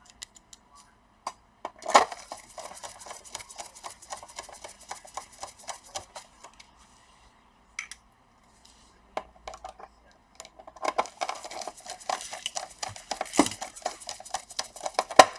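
Rapid small clicks, taps and clinks of plastic and metal laptop parts being handled and fitted during reassembly, in two busy stretches with a lull of a few seconds in the middle.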